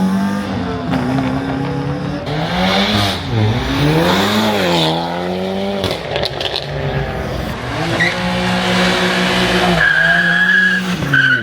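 A car engine revving up and down as it pulls away, with tires squealing for about a second near the end.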